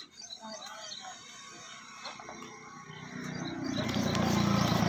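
An engine running with a steady pitch, swelling in loudness from about three seconds in. Small birds chirp at the start, fading after about a second.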